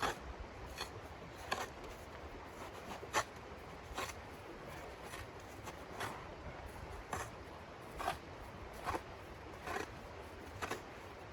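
A series of short, sharp scraping sounds, about one a second at uneven gaps, over a steady low rumble.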